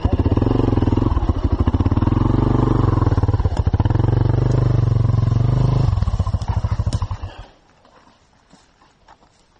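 Dirt bike engine running loudly and steadily close by, then slowing and dying out about seven seconds in as it is shut off.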